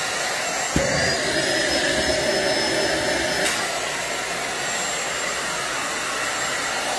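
Deerma 15 kPa handheld stick vacuum cleaner running steadily with a loud airy whoosh, with a knock about a second in and a click about three and a half seconds in.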